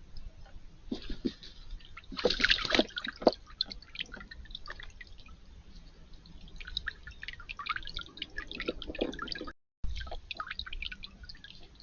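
Water dripping and splashing in a small backyard fountain: an irregular patter of drips and little splashes, broken by a brief dropout near the end.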